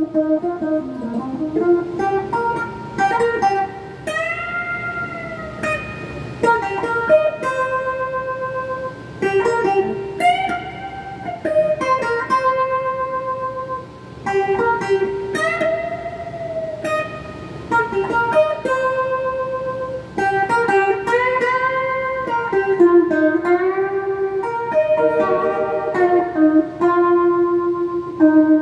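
Donner semi-hollow '72 Thinline-style electric guitar played through a phaser and a Klon-clone overdrive into a Peavey Backstage Plus amp: a single-note lead line with held notes, quick runs and repeated string bends.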